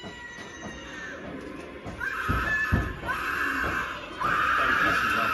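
Harsh screaming that starts about two seconds in and comes in several loud cries, the last one held, with two low thuds among the first cries.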